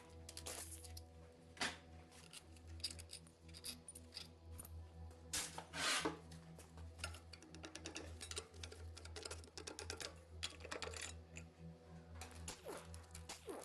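Low droning background music under scattered clinks, clicks and scrapes of metal hand tools and engine parts being handled, with a louder rattle about six seconds in.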